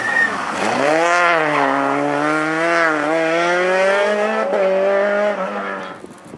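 Rally car engine under load: the pitch drops about half a second in, climbs back up and holds with small rises and falls, then fades near the end.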